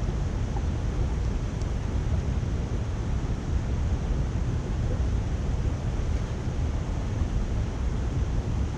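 Steady rush of water pouring through a culvert, a constant low-heavy roar with no breaks.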